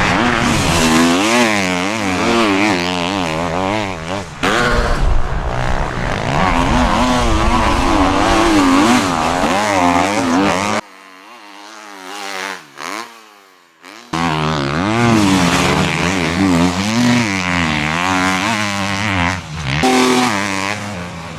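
KTM 250cc motocross bike engine, revving hard and swinging up and down in pitch through repeated acceleration and shifts on a sand track. About eleven seconds in, it drops suddenly to a faint engine note that falls away, then comes back loud about three seconds later.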